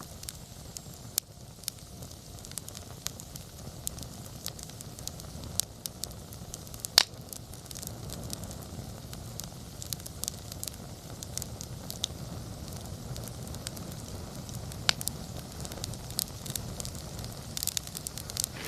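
Wood campfire crackling, with many irregular sharp pops over a low steady rumble; the loudest pop comes about seven seconds in, and another strong one near fifteen seconds.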